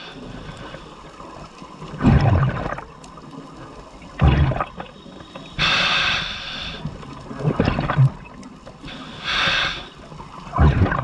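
Scuba diver breathing through a regulator underwater: rasping hiss of air drawn through the demand valve twice, alternating with rumbling bursts of exhaled bubbles about four times, in a slow regular breathing rhythm.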